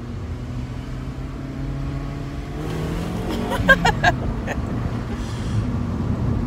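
Engine of a five-speed manual 2000 Honda Accord LX, heard from inside the cabin, holding a steady note and then rising in pitch a little under three seconds in as the car accelerates. A few short sharp sounds come about halfway through, the loudest moment.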